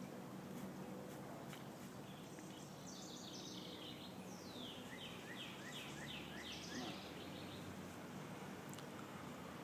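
Honeybees humming around an open hive, a faint steady low drone. In the middle a songbird sings a quick series of falling high notes.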